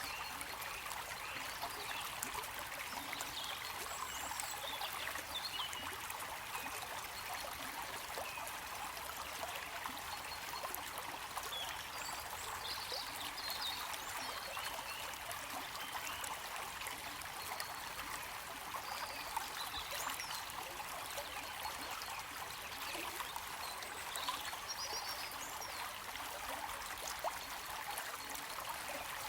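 Stream water flowing and trickling steadily, an even rushing babble with no pauses.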